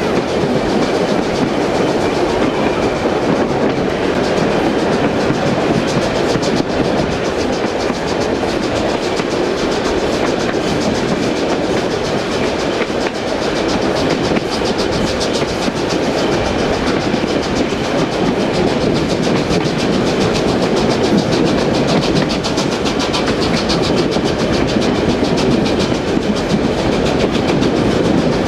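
Steam-hauled train of vintage wooden passenger carriages running along the line, heard from an open carriage window: a steady, loud rumble of wheels on rails with clickety-clack and a fast, even ticking over the top.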